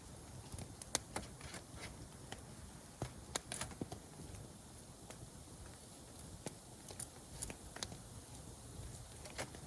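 Wood campfire crackling, with sharp irregular pops and snaps scattered over a low steady hiss.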